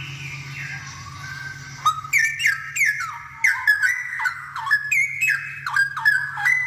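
Straw-headed bulbul (cucak rowo) singing: soft falling whistles, then about two seconds in a loud run of rich, quickly gliding whistled notes, several a second.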